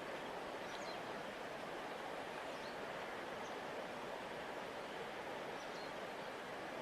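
Large river flowing, a steady even rush of water, with a few faint, short high chirps scattered through it.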